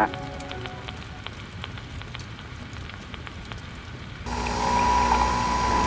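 Crackling hiss of an old recording's surface noise, with scattered clicks. About four seconds in, a louder hum with a steady high tone cuts in suddenly.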